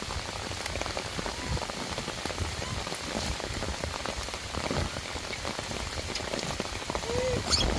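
Steady rain falling, with many small drops pattering on surfaces. A short rising-then-falling call is heard near the end.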